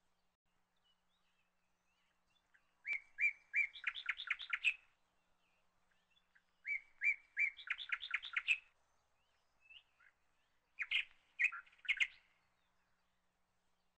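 A small bird singing three short phrases a few seconds apart, each a few separate chirps running into a quick trill.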